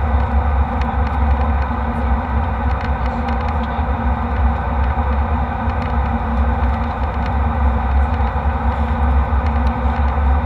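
Steady jet airliner cabin noise in flight: engine and airflow noise with a strong low rumble, unchanging throughout.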